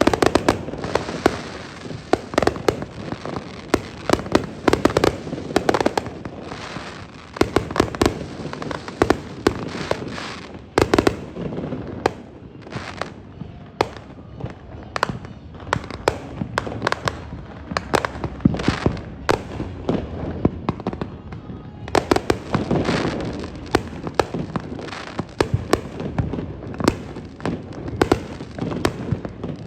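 Aerial fireworks display: volleys of sharp bangs and crackling, one after another. The bangs grow sparser from about 12 s to 21 s in, then come thick again after that.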